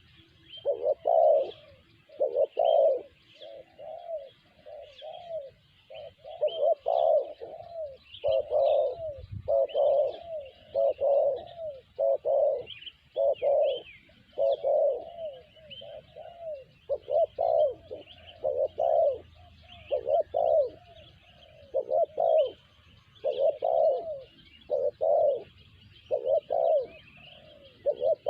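Spotted dove cooing over and over, a short coo note about once a second, with faint, high chirping of small birds behind it.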